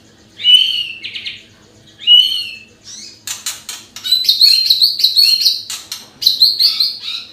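White-rumped shama singing loudly: two short whistled phrases, each followed by a brief rattle, then from about three seconds in a fast, nearly unbroken run of varied ringing notes and rattles.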